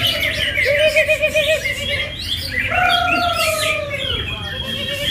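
A dense chorus of caged songbirds singing at a bird-singing contest, many birds at once with overlapping chirps and warbling trills; these are the contest birds, greater green leafbirds (cucak hijau), singing at full volume.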